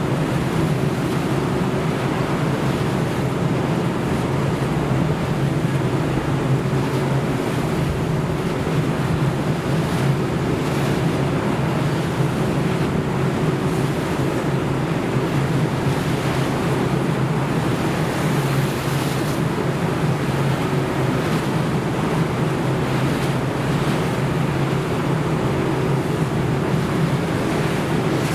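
A ship under way in heavy seas: the steady low hum of its engine under a constant rush of waves and wind.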